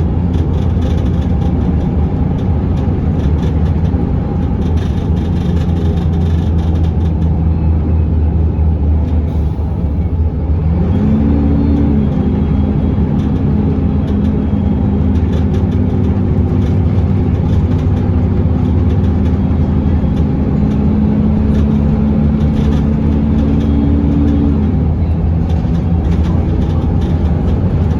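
Scania L94UB bus with a ZF automatic gearbox running along the road, its engine a steady low drone. About ten seconds in a whine rises in pitch, then holds level for some fifteen seconds before dropping out near the end.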